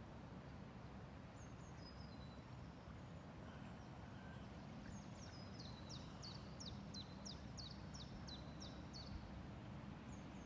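A small songbird singing faintly: a few high notes, then a rapid run of about a dozen short high notes, each dropping in pitch, at about three a second for some four seconds. Under it is a steady low wind rumble.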